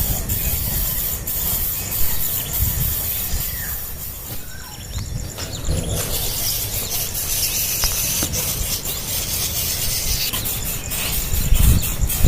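Nestling birds giving a few faint begging squeaks over low rumbling handling noise.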